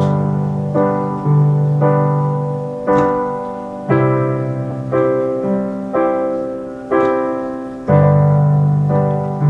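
Slow piano chords struck about once a second, each left to ring and fade: the instrumental introduction to a song.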